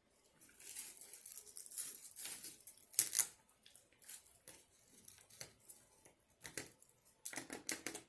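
Irregular rustling and tearing of paper food wrapping handled close by, with a few sharp crackles about three seconds in and a quick run of them near the end.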